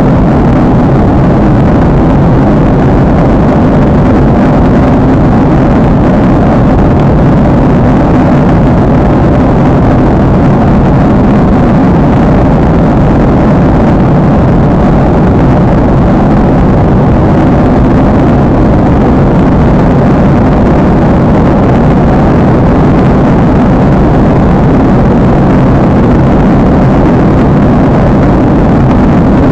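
Steady, loud drone of an airliner's jet engines and rushing air heard from inside the passenger cabin, low and unchanging throughout.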